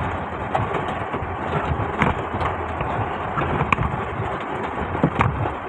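Heavy rain on a moving car, heard from inside the cabin as a dense steady hiss with a few sharp ticks, over the low sound of the engine running.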